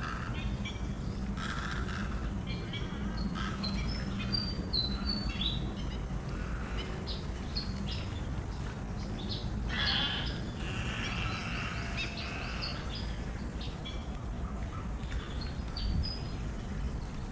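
Small birds chirping in short, scattered high notes, with a busier stretch of calls about two thirds of the way through, over a steady low background rumble.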